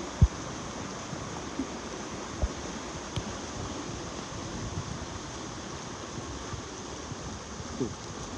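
Floodwater from heavy rain rushing steadily through a garden, with a few short low thumps.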